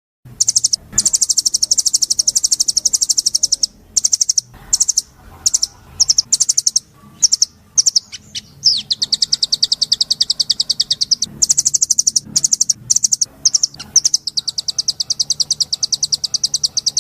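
A songbird singing a high, very fast trill in long runs, broken by short pauses and single chirps.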